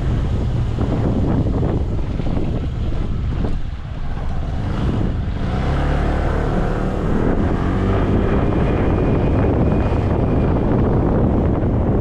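Motorcycle riding at road speed: wind rushing over the helmet or action-camera microphone, mixed with the engine running. The sound dips briefly about four seconds in.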